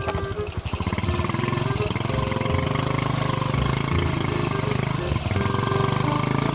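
Motorcycle engine running at low, fairly steady revs while the bike is ridden slowly over a rocky dirt trail.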